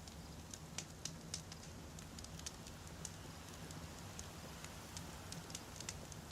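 Wood campfire crackling: irregular sharp pops and snaps of burning firewood, several close together in the first half and again near the end, over a faint low steady background.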